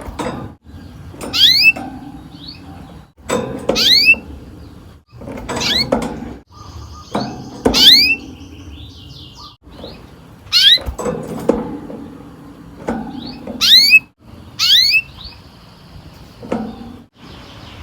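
Domestic canary calling with sharp upward-sweeping chirps, repeated about every one to two seconds, with a short buzzy trill about halfway through.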